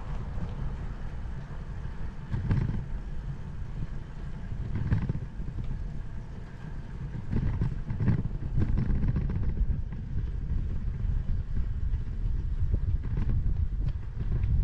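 Bicycle riding over an uneven, older paved path: wind buffeting on the camera's microphone and tyre rumble, with a few knocks from bumps in the surface.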